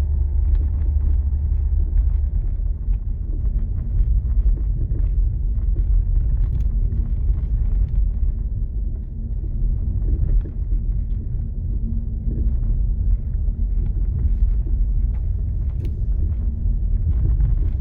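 Cabin noise of a moving Škoda Rapid: steady road and engine rumble with scattered light knocks from the front-left suspension over bumps, which the owner takes for a worn anti-roll bar link.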